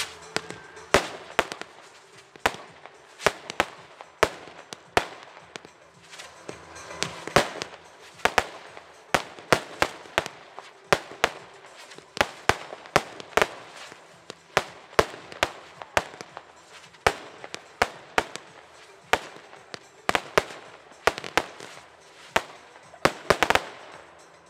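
Weco consumer fireworks going off in a long, irregular series of sharp bangs, often two or three a second, with a quick cluster of bangs near the end.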